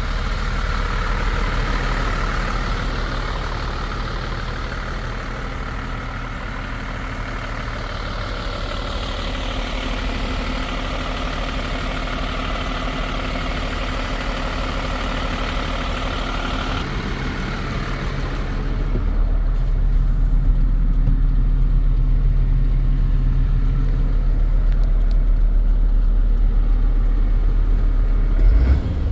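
MAN TGM 15.320 truck's six-cylinder diesel engine idling steadily. About 17 seconds in the tone shifts, and from about 19 seconds it sounds louder, deeper and more muffled.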